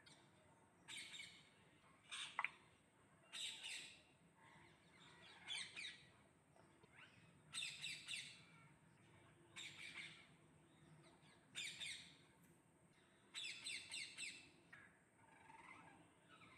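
Parrot giving short harsh squawks, one about every two seconds, with a quick run of several together near the end.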